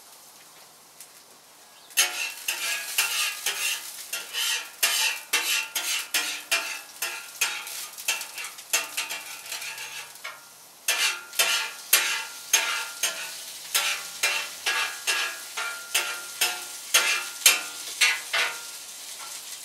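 Metal spatula scraping and stirring peppers on a hot oiled grill top, in quick strokes about two a second over a sizzle. The strokes start about two seconds in, pause briefly near the middle and stop shortly before the end.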